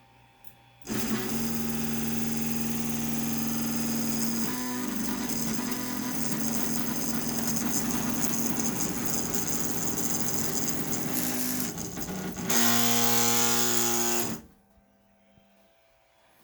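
Ender 5 Plus 3D printer's X and Y axes moving under their stepper motors: a loud, steady whine made of several tones that starts abruptly about a second in, shifts pitch about four and a half seconds in and again near twelve and a half seconds, then cuts off. This is the abnormally loud axis noise that the owner is trying to trace on a brand new printer.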